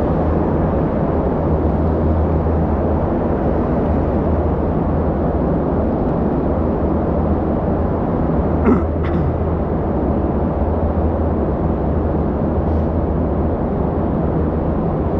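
Loud steady rumbling drone with a deep hum inside the river tunnel, sounding like generators. A brief knock about nine seconds in.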